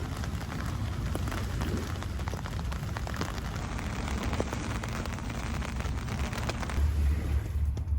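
Rain falling, a dense patter of many small drop taps. Near the end the patter drops away and a low wind rumble takes over.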